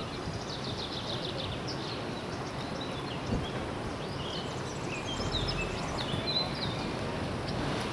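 Small birds chirping, with a quick run of chirps at the start and short scattered calls after, over a steady outdoor background hiss.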